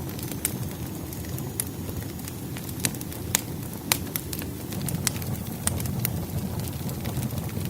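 Firewood burning in a fireplace: a steady low rush of flame with sharp, irregular crackles and pops from the wood, about one or two a second.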